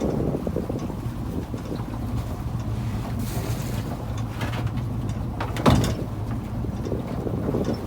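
A fishing boat's engine running steadily under way, with wind buffeting the microphone. A single sharp knock about three-quarters of the way through.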